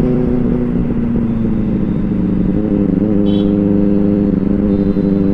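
Superbike engine and exhaust running loud and steady while riding, settling slightly lower in pitch about two seconds in. It is loud enough that the bike's own horn can't be heard over it.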